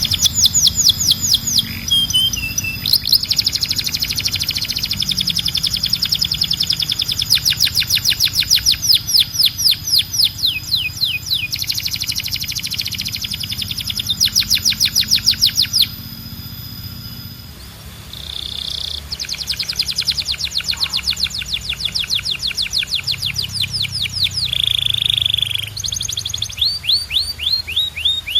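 Domestic canary singing: fast trills of rapidly repeated high notes, one phrase after another, with a short break about two-thirds of the way through and a couple of brief held notes in the later part.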